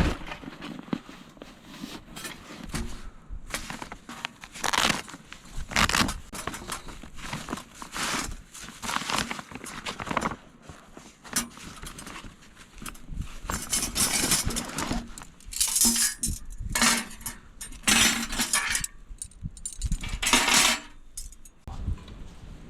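Thin steel parts of a folding fire pit clinking and clattering as they are handled and fitted together, in a long string of irregular metallic clicks and clanks.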